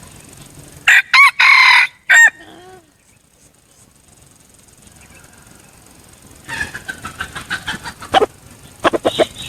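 A red junglefowl rooster crowing once, loud and clipped, about a second in, followed near the end by a rapid run of short clucks.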